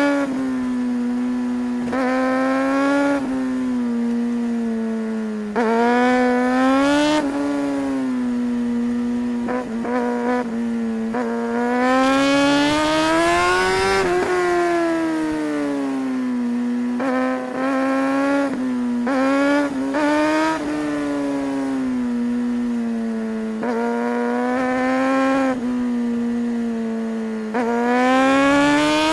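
Suzuki GSR 600's inline-four engine on the move, its revs rising and falling again and again with the throttle. The longest climb, about halfway through, peaks before the revs drop away.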